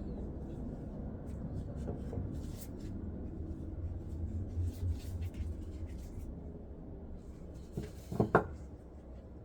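Light clicks and rubbing of small parts being handled, over a low steady hum, with two sharper knocks about eight seconds in.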